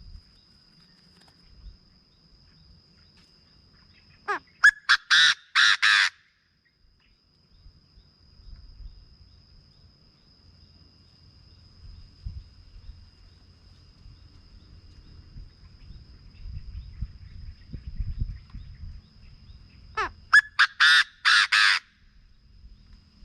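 Chinese francolin calling twice, about fifteen seconds apart: each call is a short rising note followed by a quick series of about five loud, harsh notes. A steady thin high-pitched tone runs underneath.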